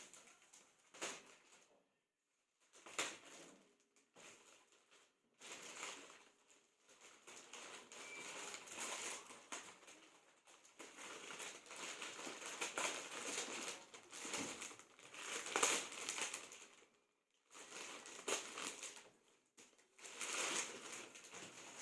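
Plastic and paper packaging being torn open and handled, crinkling and rustling in irregular spells with short pauses.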